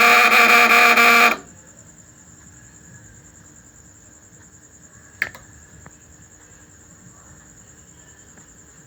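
Loud electrical buzz with a strong mains hum from a fish stunner built on a microwave oven transformer, cutting off suddenly about a second and a half in as the power is switched off. After it, only a faint steady high whine and a single sharp click about five seconds in.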